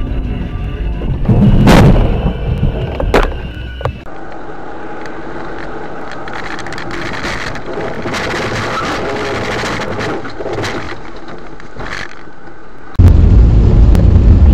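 Car dashcam audio: engine and road rumble with a loud bang about two seconds in, typical of a collision. After a cut there is a steadier, hissy stretch of road noise, and near the end a loud low rumble.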